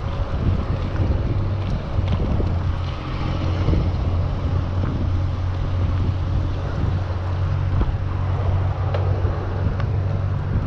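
Wind buffeting a GoPro Hero 7's microphone on a moving bicycle: a steady low rumble with road and tyre noise.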